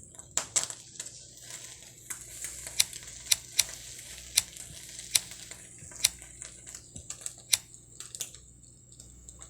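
Close-miked crunching with irregular sharp clicks over a crackle, ASMR-style, meant as the sound of a baby bird chewing.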